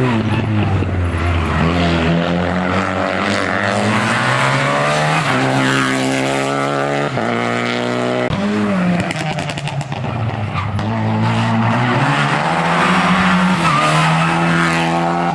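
Hill-climb race car accelerating hard, its engine pitch climbing and then dropping abruptly at each gear change, with a lift and downshift about eight seconds in before it pulls up through the gears again.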